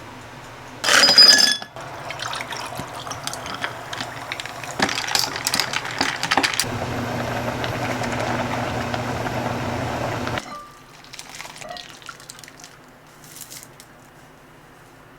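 Clinking of glass or dishes, then water running steadily for about four seconds before cutting off suddenly.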